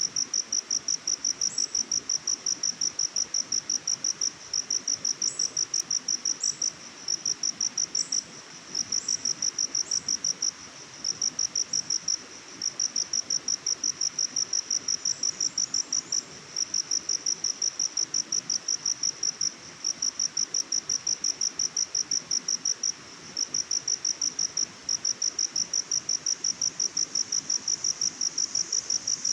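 An insect chirping in a steady rhythm, about three high-pitched chirps a second, pausing briefly now and then. Faint, short, higher chirps sound over it at times, above a soft background hiss.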